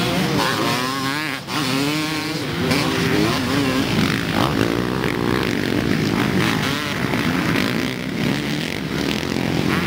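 Motocross bikes racing on a dirt track, engines revving up and down over and over as the riders work the throttle through the jumps and turns.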